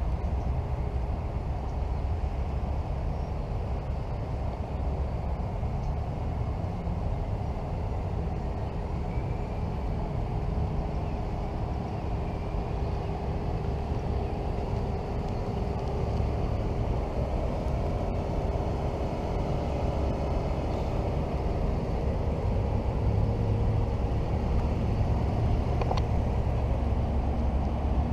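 Mercedes-Benz C300 with a custom exhaust idling steadily, a low, even rumble.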